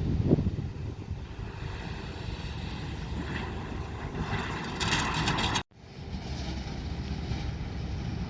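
Diesel rail vehicle's engine running steadily with a low rumble. A hiss rises over it about five seconds in, then the sound cuts out abruptly for an instant just before six seconds and the rumble resumes.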